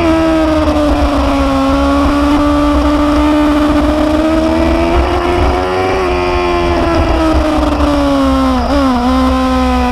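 Motorcycle engine running under way, its note rising and falling gently with the throttle, with a quick dip in pitch near the end, over a steady low rumble.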